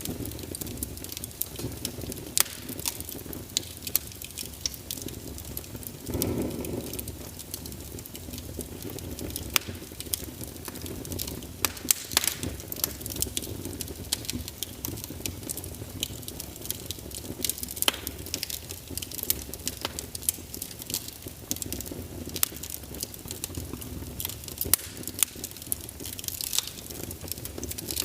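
Wood fire crackling: sharp, irregular pops over a steady low rumble, with a brief louder swell about six seconds in.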